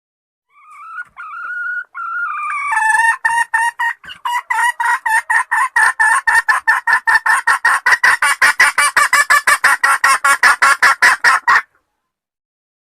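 Female junglefowl (hen) calling to draw males: a few drawn-out notes rising in pitch, then from about three seconds in a fast, even run of clucks, about six a second, that cuts off abruptly near the end.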